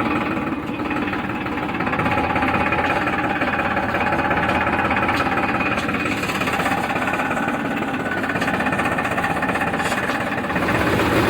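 Farmtrac tractor's diesel engine running steadily with a knocking, chattering beat, getting a little louder near the end.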